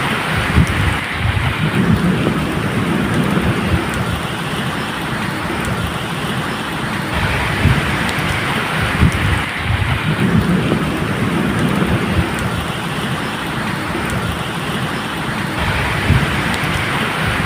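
Steady medium rain, with a low rumble of thunder underneath that swells and eases several times.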